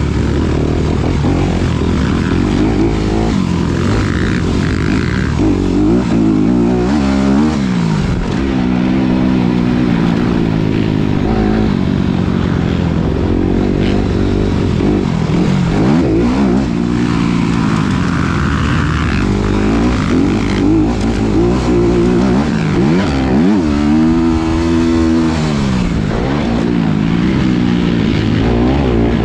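2019 Honda CRF250RX's single-cylinder four-stroke engine revving hard and backing off again and again, its pitch climbing and dropping every second or two.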